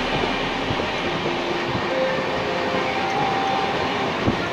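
Steady rumble and rattle of a Duronto Express passenger coach running along the track, heard from inside the moving train, with one sharp knock near the end.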